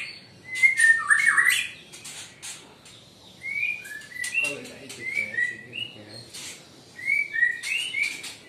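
Caged songbirds chirping: clusters of short, sliding whistled notes from several birds, loudest about a second in, with scattered sharp clicks between them.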